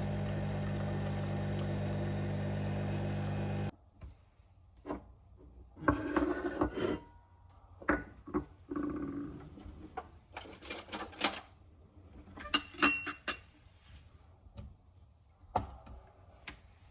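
A steady mechanical hum cuts off suddenly about four seconds in. It is followed by scattered clicks, knocks and brief rustles of small objects being handled.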